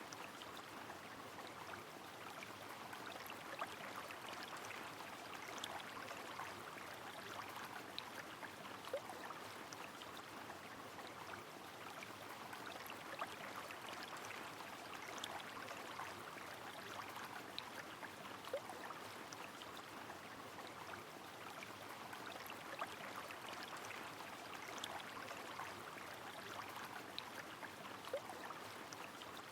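River flowing with rain falling: a steady wash of running water, with scattered raindrop ticks and small splashes throughout.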